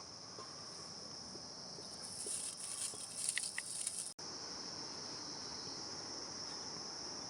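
Steady, high-pitched chirring of insects, with some rustling and scraping about two to four seconds in and a brief dropout just after four seconds.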